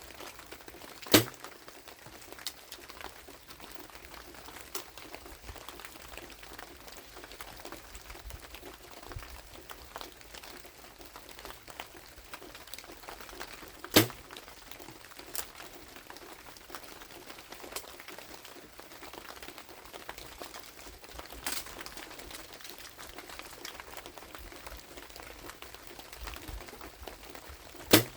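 Compound bow shot three times, about thirteen seconds apart, each release a single brief sharp crack. Under it, a steady hiss of rain with light scattered ticks.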